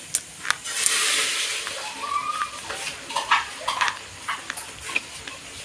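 Slate pencil being bitten and chewed close up: sharp dry crunches and snaps, with a short gritty crumbling hiss about a second in.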